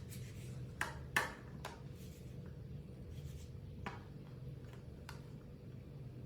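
A few scattered light clicks and taps over a low steady hum.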